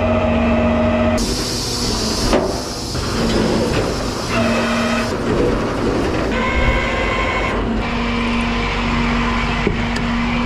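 Flatbed tow truck running with a steady mechanical drone while a car is loaded, with a burst of hiss a little over a second in and a few light knocks.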